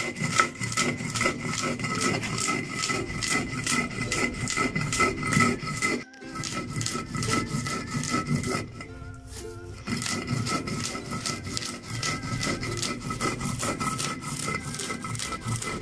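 Stone mano grinding toasted black corn on a stone metate: gritty, rhythmic scraping strokes of stone over stone and crushed kernels, with a brief break about six seconds in and a quieter stretch around nine seconds. This is the first of about four grinding passes, so the meal is still coarse.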